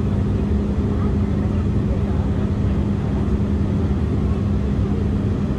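Steady cabin noise inside an Embraer E175 airliner in flight: the even rush of airflow and the drone of its twin turbofan engines, with a constant low hum.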